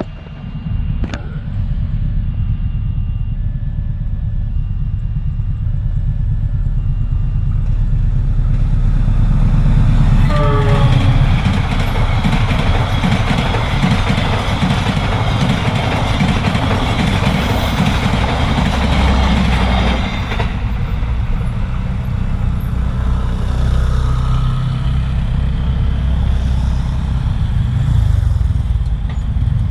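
A train passing over a railway level crossing: a heavy rumble throughout, with the loud rush of wheels on rail from about eight seconds in to about twenty, and a brief horn sound near ten seconds. In the first few seconds a short warning tone repeats about every second and a half, fitting the crossing's siren, which here is a recording played through a megaphone.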